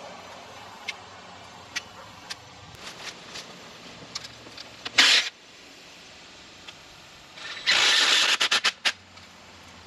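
Scattered clicks and knocks, then two loud scraping, rattling bursts from a steel wire cattle panel being shifted: a short one about halfway through and a longer, pulsing one near the end.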